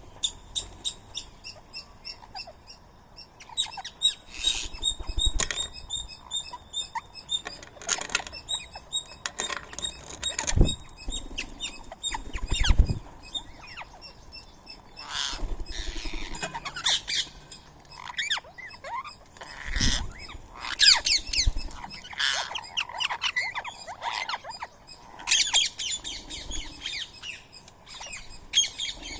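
Indian ringneck parakeets calling and chirping in short bursts, with wingbeats and several dull thumps scattered through.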